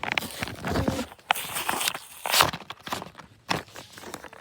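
Die-cast car packaging being worked open by hand: irregular clicking, scratching and crinkling as fingernails pick and pry at the plastic and card.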